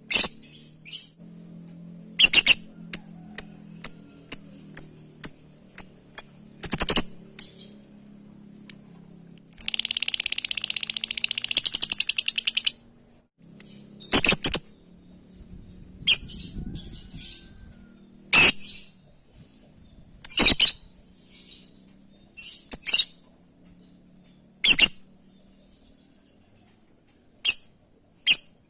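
Lovebird calling: sharp, shrill single calls every few seconds with quieter short chirps in between, and a rapid chattering trill lasting about three seconds near the middle.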